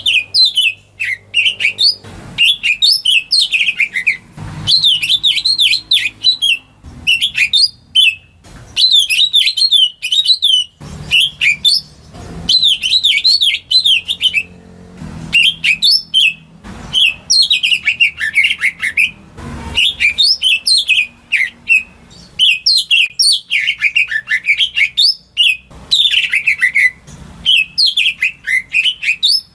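Green leafbird (cucak ijo) singing: phrases of rapid, sweeping whistled notes, each a second or two long, with short breaks between them.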